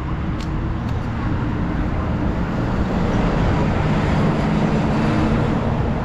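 Steady wind and road noise from riding a motorized bike, with a faint low hum underneath.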